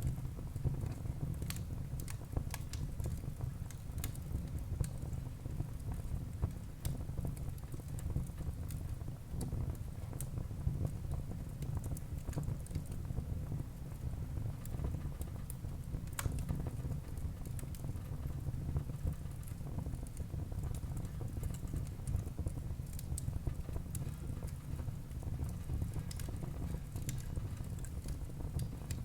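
Wood burning in an open fireplace: a steady low rumble of flame with frequent small crackles and a few sharper pops from the burning wood.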